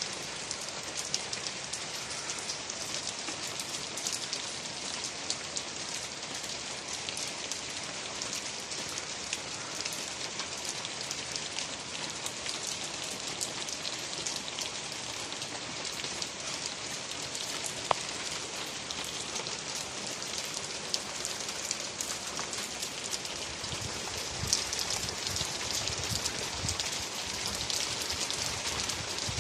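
Steady rain falling, a dense hiss of drops with many small individual drop taps, growing somewhat louder near the end.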